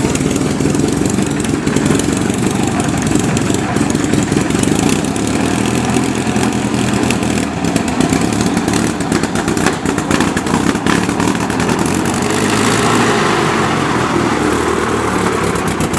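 Early Wolf automobile's water-cooled four-cylinder engine running steadily just after being started, with a fast, even patter of firing.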